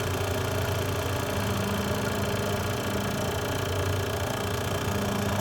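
HVAC vacuum pump running steadily with an even motor hum, pulling a deep vacuum on an air-conditioning system as the micron reading drops toward 250 microns.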